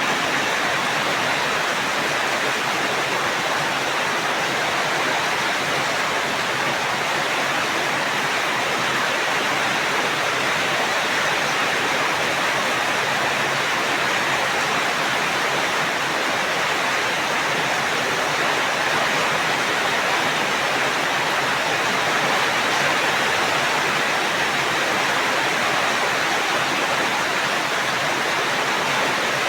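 Steady, dense rain: an even hiss of falling water with no separate drops or thunder standing out.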